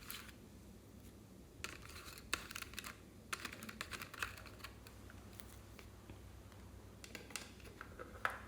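Slime being squished and worked by hand, giving spells of quick crackling clicks, about 2, 4 and 7 to 8 seconds in.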